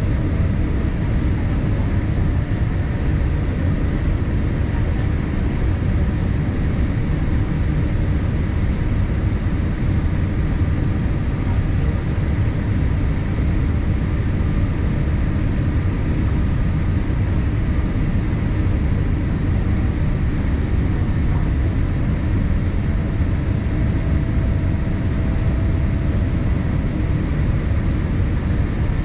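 Steady cabin noise inside a Boeing 787-8 airliner: an even, unbroken rumble of engines and airflow, heaviest in the low range, with a faint steady hum over it.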